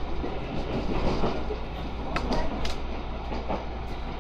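Running noise inside a JR West 223 series 0 electric train on the move: a steady rumble of wheels on rail over a constant low hum, with a few sharp clicks about two seconds in.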